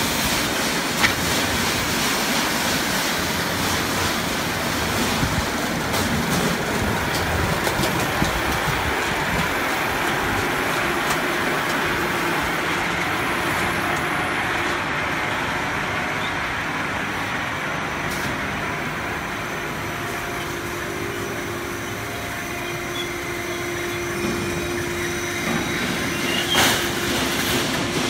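Automatic HVAC duct production line running: a steady machine noise with a few sharp clanks, and a faint steady hum coming in during the second half.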